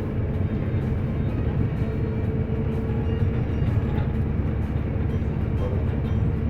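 Steady low rumble of a moving vehicle, with a faint hum over it.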